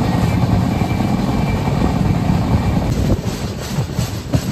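Sleeper coach of a moving express train, heard from inside: a steady low rumble of wheels on rails and rushing air, with a few sharp clacks over rail joints in the second half.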